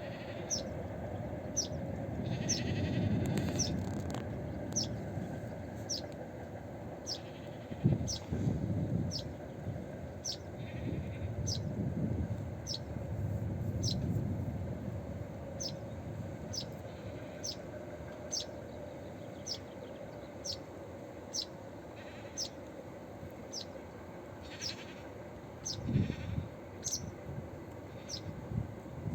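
A small bird repeating a single short, high, downward-slurred call note about once a second, steadily. Beneath it is a low rumble that swells and fades several times.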